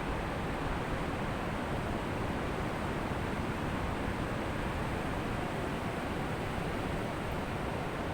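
Ocean surf washing on a beach: a steady, even rush of noise with no distinct single wave crash standing out.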